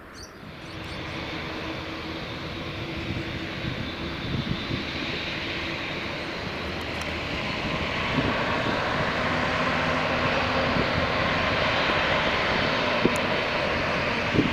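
Jet airliner's engines at takeoff power, a rushing roar that comes up about half a second in and grows louder from about eight seconds in as the aircraft comes closer.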